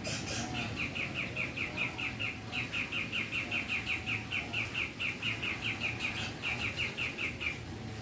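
A bird giving a fast, even run of short repeated chip calls, about four or five a second, with a brief break and then stopping shortly before the end.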